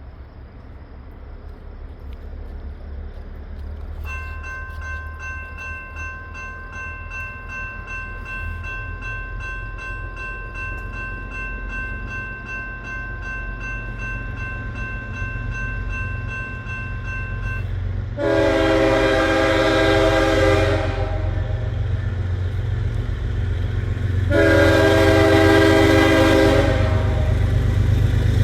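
Lead GE diesel locomotive of a freight train sounding two long horn blasts over the growing rumble of the approaching engines, with a third blast starting at the very end. Before the horn, a steady high ringing tone holds for about thirteen seconds and stops just before the first blast.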